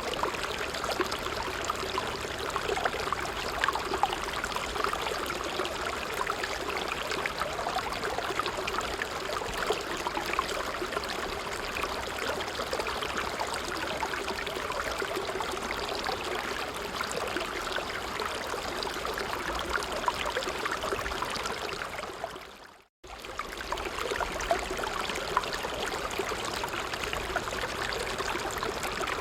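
Small stream flowing and trickling steadily over stones. About three-quarters of the way through, the sound fades out to silence for a moment and snaps straight back, as at a loop or edit point.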